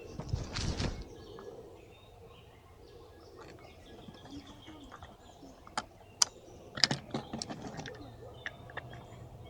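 Outdoor woodland ambience: faint bird chirps under irregular sharp clicks and rustles, with a louder rustle in the first second and a cluster of clicks around the middle.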